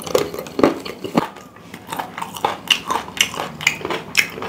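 A man chewing and smacking his lips while eating chicken by hand, close to a clip-on microphone: a run of irregular small clicks and smacks.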